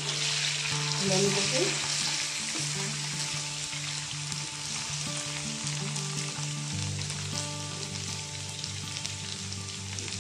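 Marinated chicken pieces sizzling steadily as they fry in hot oil in a wok. A metal spatula scrapes and turns them in the first two seconds.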